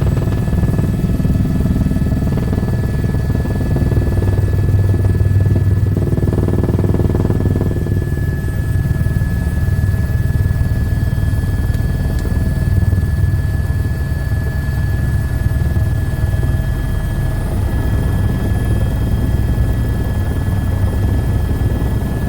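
Helicopter running steadily: a loud, even rotor and engine rumble with a steady high whine on top.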